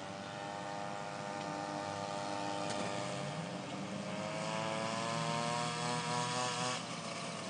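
Mini-bike's small engine running, its pitch climbing as the throttle is opened from about four seconds in, then dropping suddenly near the end as the throttle is let off.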